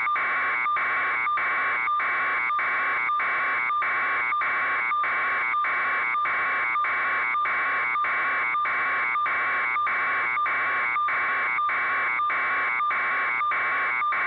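Electronic alarm-style buzzing tone, pulsing evenly about three times a second at a steady level.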